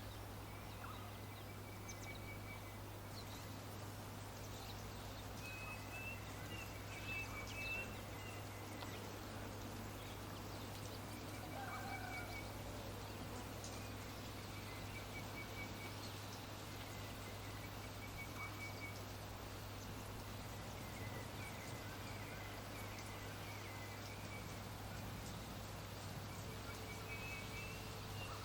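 Birds calling: short, rapid chirping trills repeated every two or three seconds, over a steady low hum and hiss.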